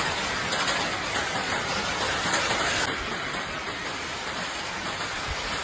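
Strong wind with rain, a steady loud rushing noise that shifts abruptly about three seconds in.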